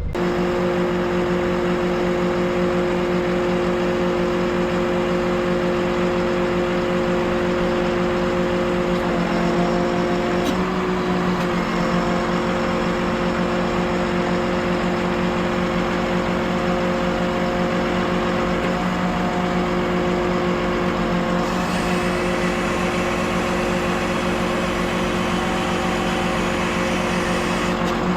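Heavy vehicle engine running steadily with a whining hum, its pitch shifting slightly a few times.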